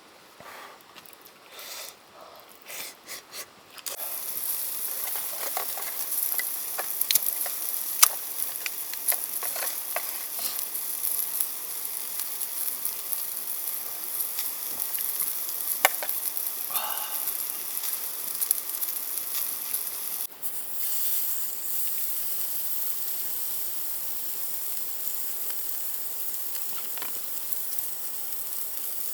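A few soft handling clicks, then about four seconds in food starts sizzling loudly on the heat: a steady high hiss with scattered pops and crackles.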